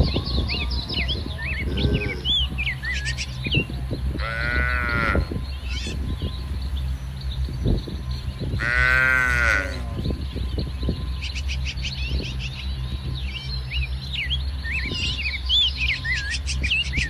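Cattle mooing twice, each call about a second long, rising and then falling in pitch. Small birds chirp throughout over a steady low rumble.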